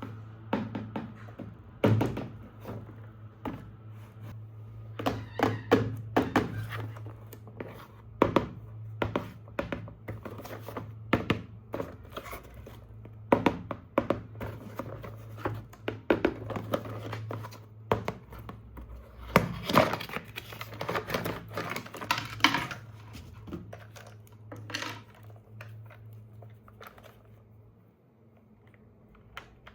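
Hard plastic toy parts and packaging being handled: irregular clicks, taps and knocks, busiest about a fifth of the way in and again about two thirds in, over a steady low hum.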